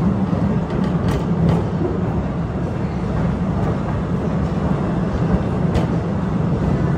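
Narrow-gauge cave train running along the track: a steady rumble of wheels on rail, with a few sharp clicks about a second in and again near the end.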